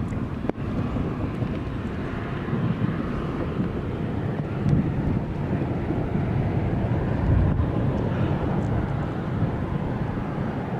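Steady low rumbling wind noise buffeting the microphone during a storm, with a brief drop about half a second in.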